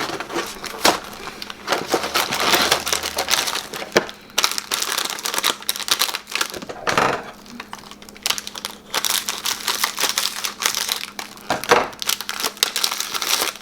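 Plastic cookie packaging crinkling and rustling as it is opened and handled, with many sharp crackles and clicks.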